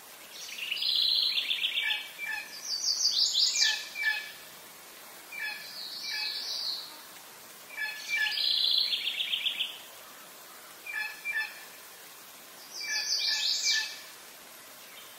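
A songbird singing: about six high-pitched phrases of rapid trills mixed with short clipped notes, each a second or two long, a second or so apart.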